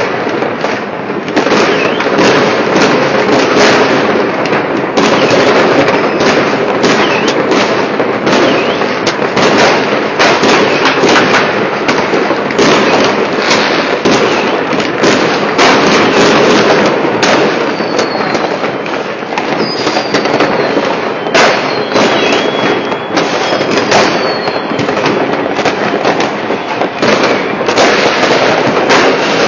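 New Year fireworks and firecrackers going off all around, a dense, continuous crackle of overlapping bangs. A few short falling whistles come through in the middle.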